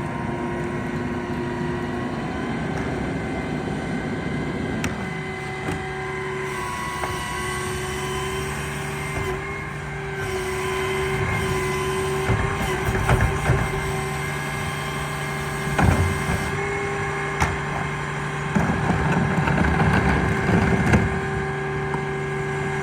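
Garbage truck running with a steady mechanical whine over the engine, its note changing about five seconds in, as it picks up trash; knocks and clatter of trash and bins come from about twelve seconds on.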